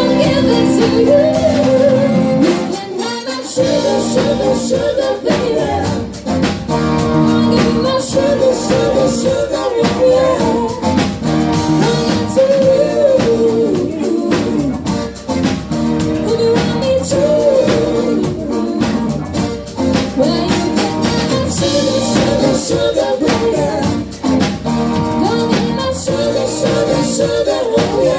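A live band playing a bluesy rock-and-roll number with guitar, bass and drums, a singer's wavering melody line over it; the low end drops out briefly about three seconds in before the groove comes back.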